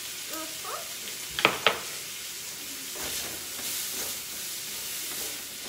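Bacon, onions and garlic sizzling in a wok, with a spatula stirring and scraping through the pan. Two sharp knocks about a second and a half in.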